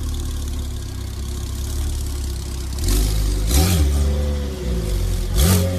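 Porsche 991 Turbo S twin-turbo flat-six with an Akrapovic exhaust idling, then blipped twice in quick revs that rise and fall, about two seconds apart in the second half.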